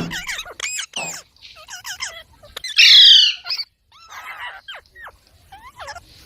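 Parrot calling: a string of short chirps and sliding whistles, with one loud harsh squawk about three seconds in.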